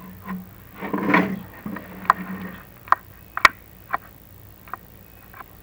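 A brief scrape, then a string of sharp separate clicks and knocks as an inspection camera is lowered down a clay-tile chimney flue. The camera head and its cable are tapping and rubbing against the flue walls on the way into the smoke chamber.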